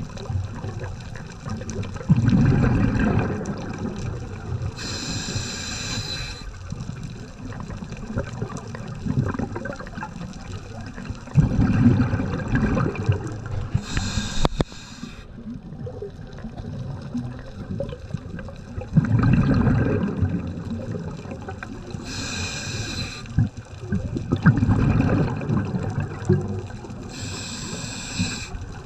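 Scuba diver breathing through a regulator underwater: a short hissing inhale alternates with a longer bubbling exhale, one breath about every eight seconds.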